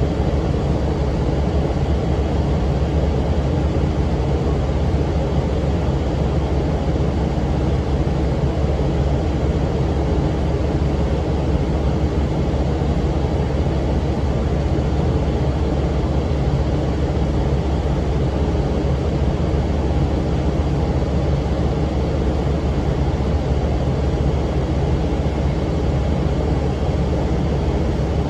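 Cummins ISM diesel engine of a 2006 NABI 40-foot low-floor transit bus running with its engine cooling fan going: a steady, unbroken drone with a low hum.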